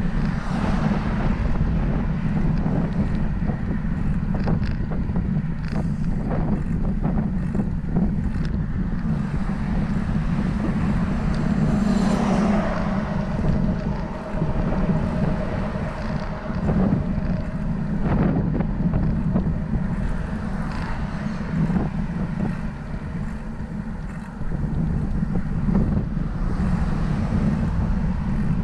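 Wind buffeting the microphone on a moving bicycle: a steady low rumbling rush with scattered small knocks, swelling briefly about twelve seconds in.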